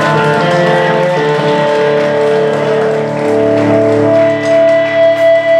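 Live band music: amplified electric guitars ringing on long held notes, with one high sustained tone growing louder toward the end.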